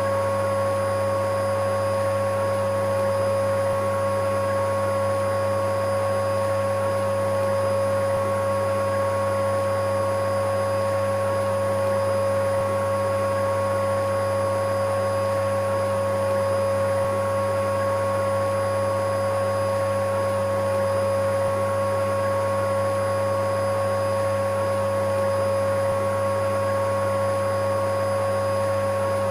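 Electric vacuum cleaner running steadily, with an unchanging motor whine over a constant airy rush.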